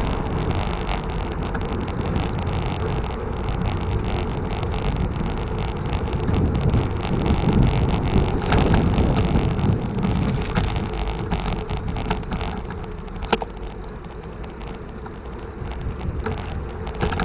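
Road and wind noise from riding a bicycle: a steady low rush that swells in the middle and eases later, with a sharp click about two-thirds of the way through.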